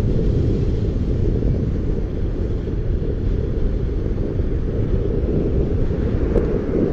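Wind buffeting a moving rider's microphone: a steady, loud low rumble with no distinct tones.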